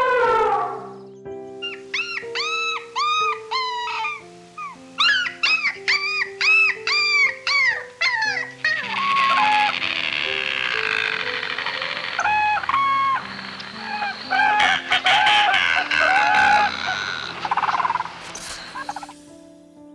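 Soft piano music with a series of animal calls over it. From about a second in come quick runs of short calls that rise and fall in pitch. Later come noisier stretches of shorter, flat-pitched calls.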